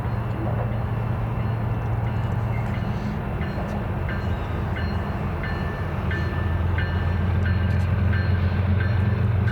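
BNSF train running by, a steady low drone that grows louder toward the end. Short high-pitched squeaks repeat every half second or so from a few seconds in.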